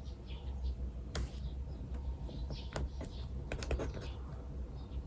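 Pen writing on paper: scattered scratchy strokes and clicks, thickest about three and a half seconds in, over birds chirping and a steady low hum.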